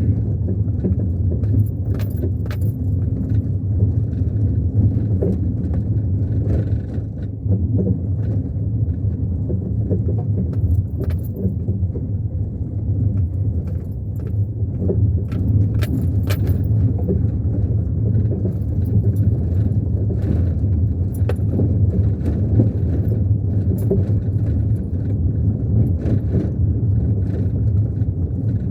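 Car driving along, heard from inside the cabin: a steady low road and engine rumble, with frequent jangling, rattling clicks on top.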